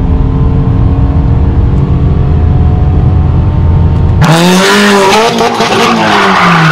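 The Hyundai Genesis's 3.8-litre V6 pulling hard at full throttle, heard from inside the cabin as a loud, steady drone with heavy road rumble. About four seconds in it cuts abruptly to a different car's engine revving up and down over loud, harsh tyre and scraping noise.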